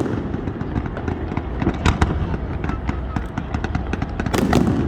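Fireworks going off in a quick, irregular series of sharp cracks and pops over a steady low rumble, with a louder, longer burst near the end.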